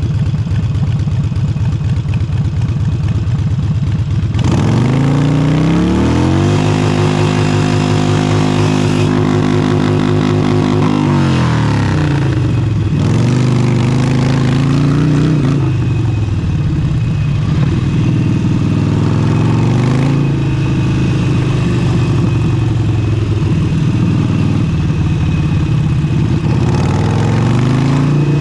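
Harley-Davidson Forty-Eight's air-cooled 1200 cc V-twin on an aftermarket Vance & Hines exhaust, heard riding. It runs low for the first few seconds, then revs up and holds high, drops back, and rises and falls several more times as the bike speeds up and slows. Wind buffets the microphone throughout, louder at speed.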